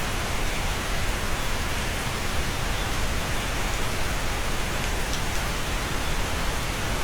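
Steady, even rain heard from inside a cabin, with a faint tap of a single drop now and then.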